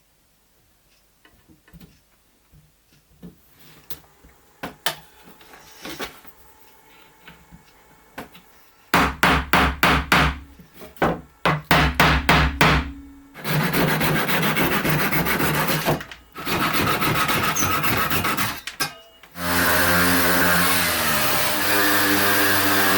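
Workshop work on wooden parts. First light clicks and small knocks of handling, then about nine seconds in a quick run of loud knocks. After that a power tool runs steadily, stopping and restarting twice, and its motor pitch steps up and down near the end.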